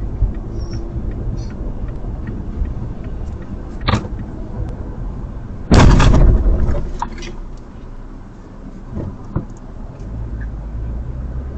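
Car cabin and road rumble from a vehicle on the move, with a sharp knock about four seconds in. A loud collision impact follows about six seconds in and dies away over about a second.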